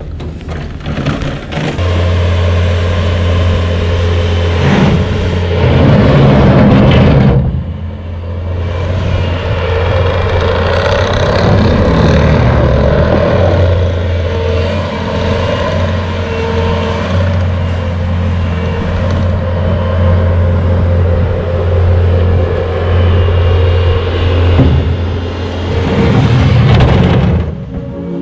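A vehicle engine running with a steady low drone for most of the stretch, while the noise above it rises and falls. There is a short drop about seven and a half seconds in.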